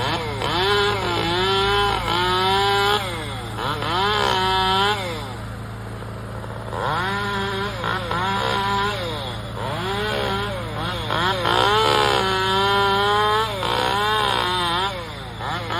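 Two-stroke chainsaw cutting limbs, its engine pitch repeatedly rising and falling as the throttle is opened and eased off, with a quieter idle spell about five seconds in.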